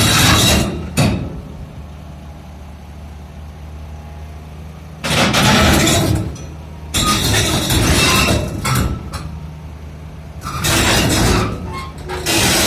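Excavator diesel engine running steadily, with repeated loud bursts of clanking and grinding, each lasting a second or two, several times over.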